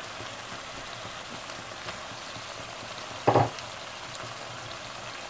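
Minced lamb and potato pieces sizzling steadily in oil in a frying pan, with one short thump about three seconds in.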